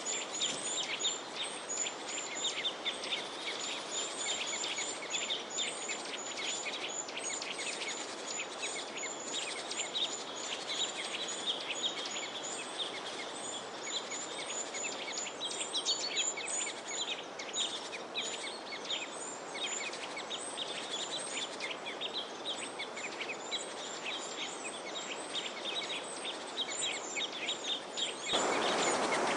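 Many small birds chirping and twittering together, with quick runs of high repeated chirps over a steady outdoor hiss. About a second before the end the background hiss jumps suddenly louder.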